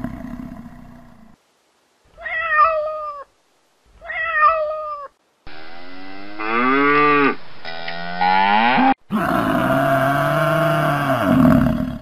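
Cattle mooing: two drawn-out low moos, then a third longer one starting about three-quarters of the way in. Before them come two short, higher calls, each falling in pitch at the end.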